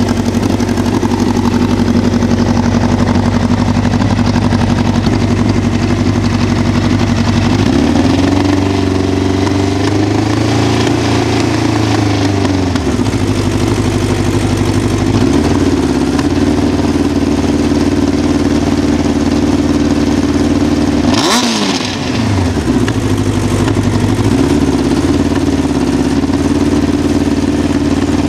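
1988 Honda CBR1000F Hurricane's inline-four engine idling with the cam chain noise typical of first-generation CBR1000s. About eight seconds in, it is held at raised revs for about five seconds, where the chain noise goes away. Later it is blipped once sharply and drops back to idle.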